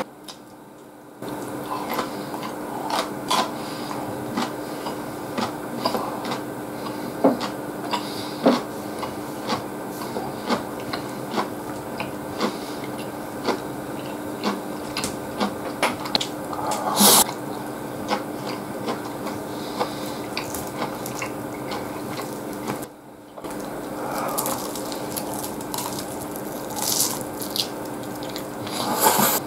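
Close-up wet chewing and smacking of a man eating egg-topped pork cutlet and rice, with wooden chopsticks clicking against the plate. A steady low hum runs underneath.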